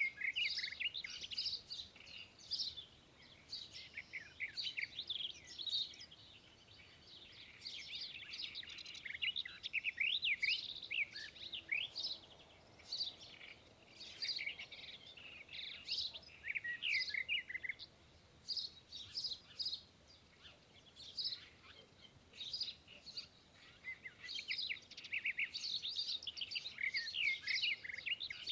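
Several small songbirds chirping and twittering, in quick high-pitched bursts of short calls with brief pauses between them.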